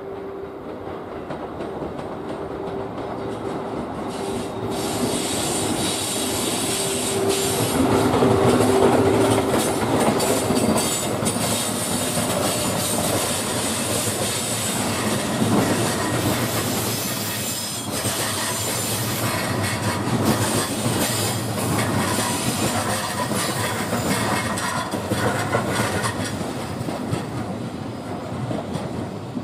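EF81 electric locomotive hauling a five-car E531 series electric train slowly past on its arrival, wheels squealing and clattering over the rail joints and points. A steady hum sounds through the first ten seconds or so, and the train is loudest about nine seconds in.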